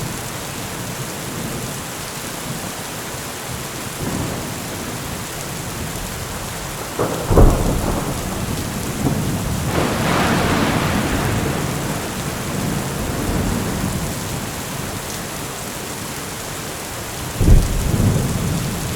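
Steady heavy rain with rolling thunder. A sharp thunderclap comes about seven seconds in, a longer rumble follows a couple of seconds later, and a second clap comes near the end.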